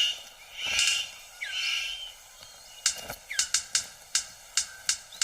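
Male superb bird of paradise displaying to a female: three loud harsh buzzy calls in the first two seconds, then a quick run of sharp snapping clicks, about three a second, from about three seconds in. Descending whistled notes sound behind.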